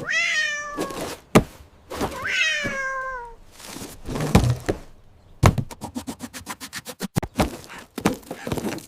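A cat meows twice, each meow falling in pitch, with a sharp knock between the two. A few dull thuds follow, then a quick run of knocks, several a second, over the last three seconds.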